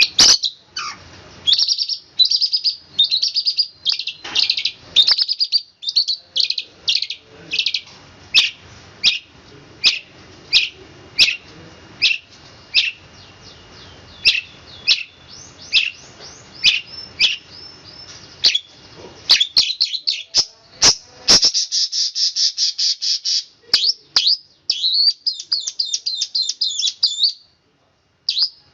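Long-tailed shrike (cendet) singing: a long string of short, sharp chirps, then fast, tightly packed rolling trills in the second half.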